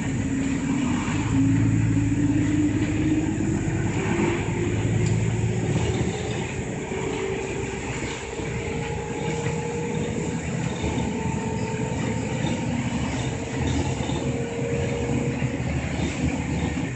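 City route bus heard from inside the cabin while under way: the engine rumbles steadily beneath a drivetrain whine that slowly rises in pitch as the bus picks up speed.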